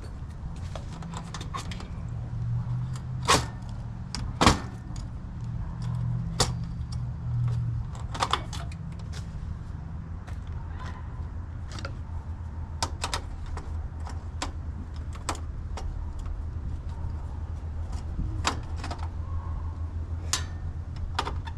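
Scattered clicks, clinks and knocks of hand tools and metal parts being handled while working on an air-conditioner condensing unit, the sharpest two about three and four and a half seconds in. A steady low hum runs underneath and drops lower about eight seconds in.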